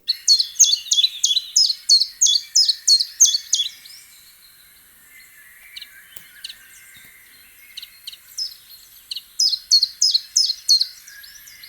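Common chiffchaff singing: two runs of its repeated chiff-chaff notes, about three a second, with fainter birdsong between them.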